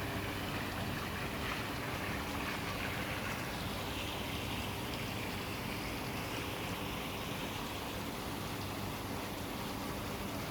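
Steady rushing ambient noise with no distinct events, with a faint low hum underneath.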